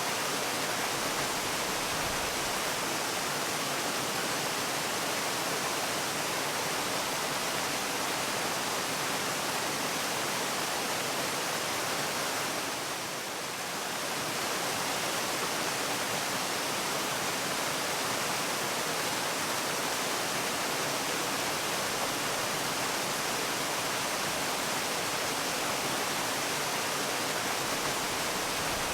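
Waterfall: a steady, even rush of falling water with no other sounds, dipping slightly in loudness for a moment about halfway through.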